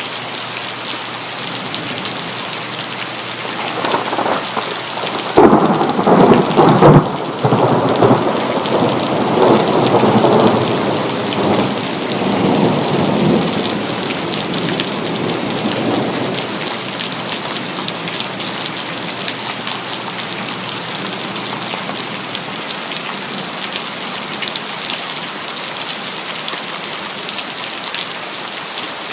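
Steady rain with a thunderclap about five seconds in: a sharp crack, then thunder rumbling away over about ten seconds.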